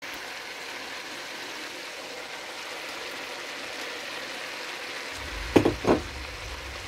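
Vegetables sizzling steadily in a hot wok as a stir-fry cooks. Near the end come two short, loud bumps about a third of a second apart.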